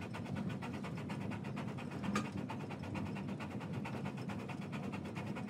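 Steam train's passenger car rolling along the track: a steady low rumble with a fast, even clatter, and one short click about two seconds in.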